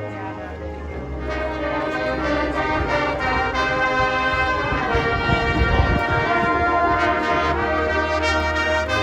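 Marching band brass section playing held chords over sustained low brass notes, swelling louder over the first few seconds, with a low drum rumble about five seconds in.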